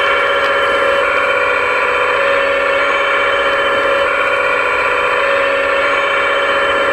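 RC scale construction model's motors and hydraulics giving a loud, steady whine made of several tones at once, with the pitch shifting slightly near the end.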